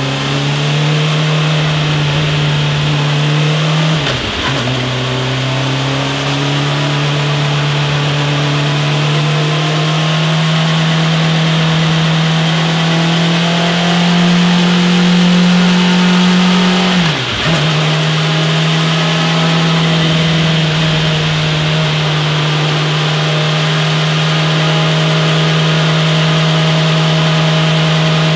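Motorcycle engine running steadily at high revs, its pitch drifting slowly upward, then briefly dropping and recovering twice: about four seconds in and again a little past halfway.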